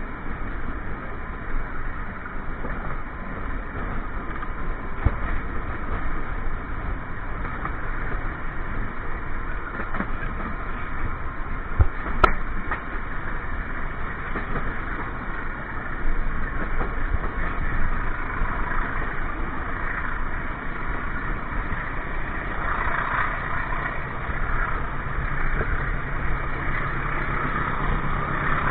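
Passenger train carriage running at speed, heard from inside its toilet compartment: a steady rumble of wheels on the rails, with a few sharp knocks about five and twelve seconds in. A low steady hum joins near the end.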